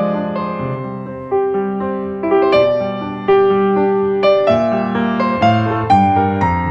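Background music: a slow solo piano piece, notes struck one after another and left to ring.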